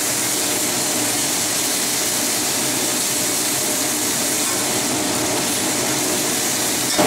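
Choy sum sizzling in a hot oiled wok over a gas flame: a steady frying hiss.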